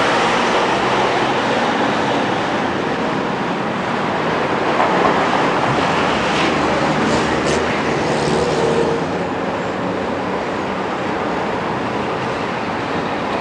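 Busy city street traffic with trams running: a steady mixed rumble of vehicles, with a few short high-pitched streaks about halfway through.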